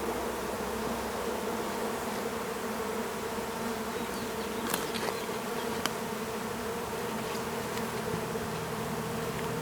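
A honeybee swarm buzzing in a steady, dense hum, with a couple of faint clicks about five and six seconds in.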